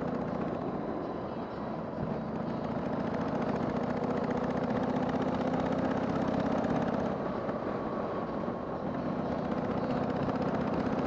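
Harley-Davidson Sportster 883's air-cooled V-twin engine running under way, with wind and road noise. The engine note drops about seven seconds in and picks up again a little later.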